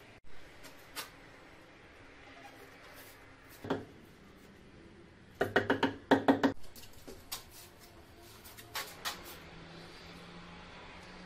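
Sharp knocks on a hard surface: one about a third of the way in, then a quick run of about eight in a row past the middle, and a couple more later on.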